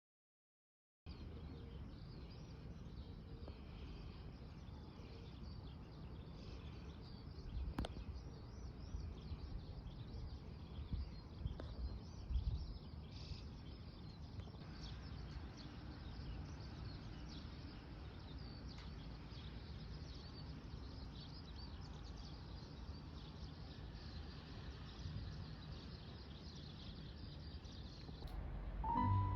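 Outdoor ambience starting about a second in: steady background noise with a low rumble and faint bird chirps, and a single sharp click about eight seconds in.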